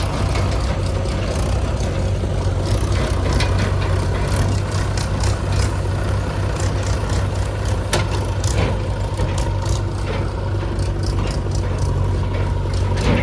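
Heavy diesel engine running steadily with a deep hum, with frequent rattles and clicks and a sharper knock about eight seconds in.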